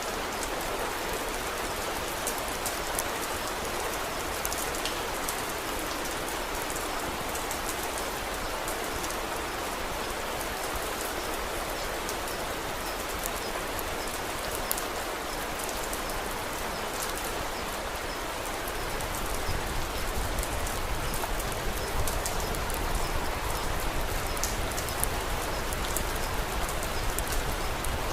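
Steady rain falling, an even hiss with scattered sharp ticks. About two-thirds of the way through, a low rumble joins in and the sound grows slightly louder.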